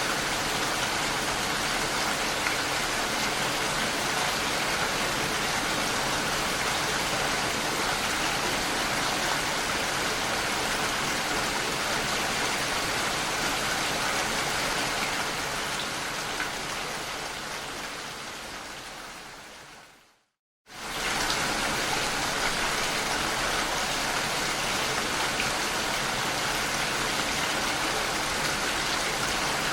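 Steady rain recording, an even hiss of falling rain. About two-thirds of the way through it fades out over several seconds to a brief moment of silence, then comes back in within a second at the same level: the seam where the rain loop restarts.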